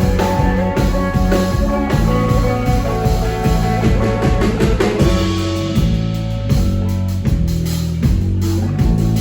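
Live rock band playing, with guitar and a drum kit keeping a steady beat.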